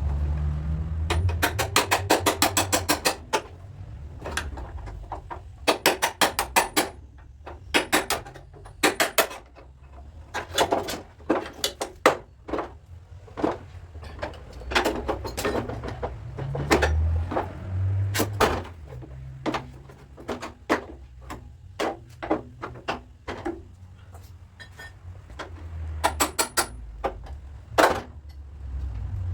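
Hammer tapping on a car's sheet-metal body panel during dent repair: quick runs of light taps, several a second, broken by short pauses. Background music plays underneath.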